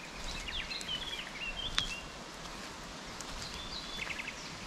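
Small birds chirping and warbling in short phrases, with a quick run of notes near the end, over a steady outdoor hiss.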